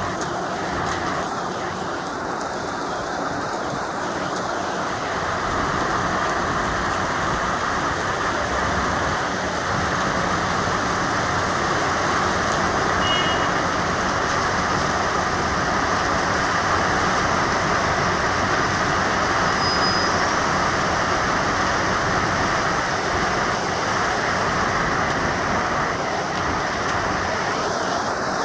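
Heavy rain pouring steadily, a dense even hiss that grows a little louder a few seconds in.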